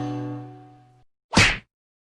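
The tail of a short musical sting fades out over the first second, then a single brief whack sound effect cracks out about a second and a half in, lasting about a quarter of a second.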